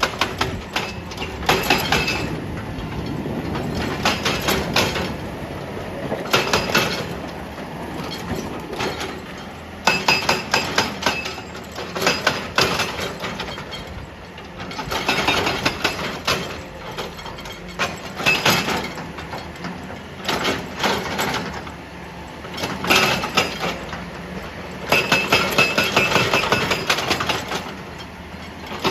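Excavator-mounted hydraulic rock breaker hammering rock in repeated bursts of rapid metallic blows, each burst a second or a few seconds long, with short pauses between.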